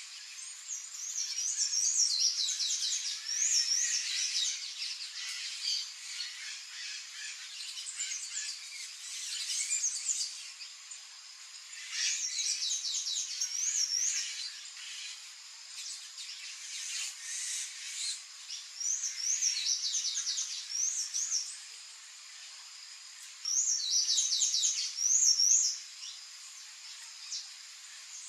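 Songbird singing: short, high, warbling phrases of about two seconds, repeated every few seconds, with fainter chirps in between.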